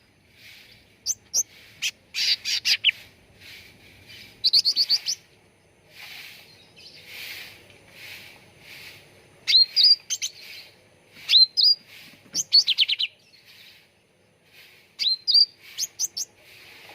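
Cucak ranting bird singing in repeated short bursts. Each burst has quick rising whistles followed by a fast run of falling, chattering notes, with softer calls in between.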